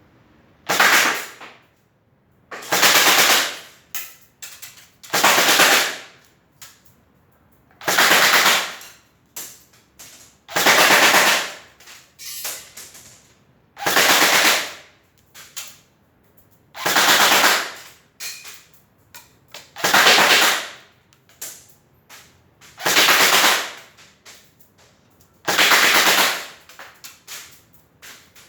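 Airsoft gun firing full-auto bursts: about ten short bursts of rapid shots, each lasting around a second, roughly every three seconds, with faint clicks between them.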